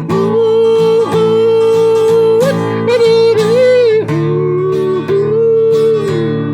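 A singer yodeling the wordless refrain of a cowboy song, holding long notes that break quickly up and down in pitch, over a strummed acoustic guitar.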